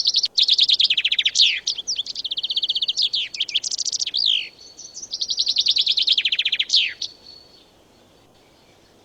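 Songbird singing: fast trills of rapidly repeated high notes broken by quick sweeping slurs, in two long phrases.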